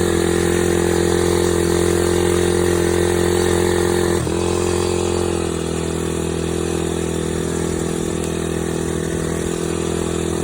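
Dirt bike engine running at a steady speed. Its pitch dips briefly about four seconds in, and the engine then runs on a little quieter.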